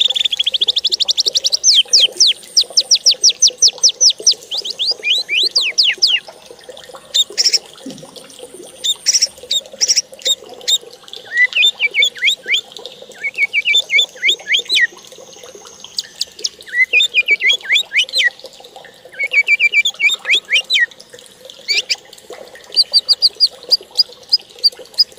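A songbird singing: a long, fast series of quick down-slurred notes opens the song, followed by shorter varied phrases with brief pauses. Near the end comes a rapid run of even, high notes.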